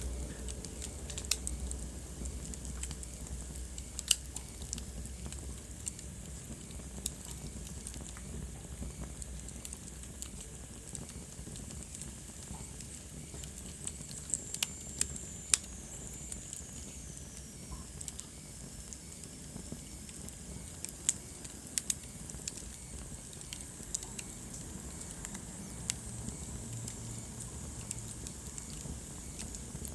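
Wood fire burning in a fireplace: irregular sharp crackles and pops over a steady low rumble and soft hiss, with a faint high whistle sliding down in pitch about halfway through.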